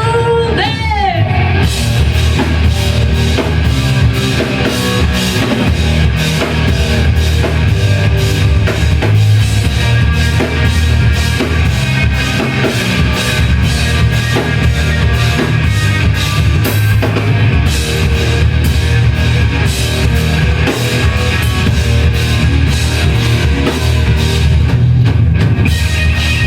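Live rock band playing loudly, the drum kit keeping a steady beat under bass and other instruments, with a sliding pitched note about a second in.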